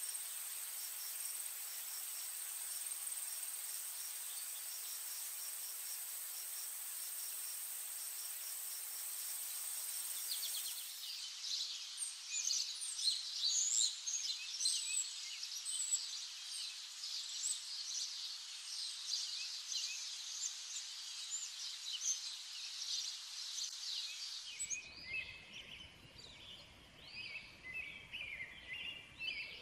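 Nature ambience: a steady high insect drone, crickets or cicadas, for about the first ten seconds, then a dense chorus of bird chirps. About twenty-five seconds in it switches to scattered bird calls over a low rushing background.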